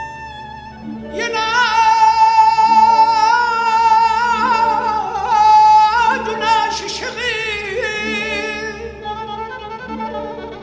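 Mugham singing: a wordless, melismatic vocal line full of rapid trill-like ornaments comes in about a second in over sustained orchestral strings, and eases off near the end.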